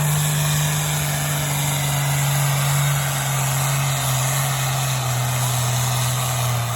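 A pulling vehicle's engine running hard under heavy load as it drags a weight-transfer sled down the track. The note is loud and steady, and its pitch slowly sags as the load builds.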